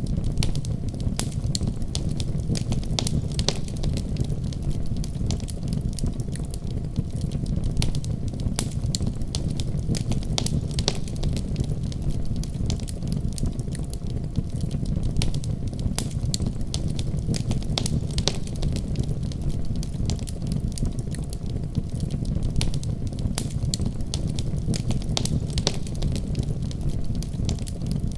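Wood fire crackling in a fireplace: a steady low rumble of burning with many sharp pops and snaps scattered irregularly throughout.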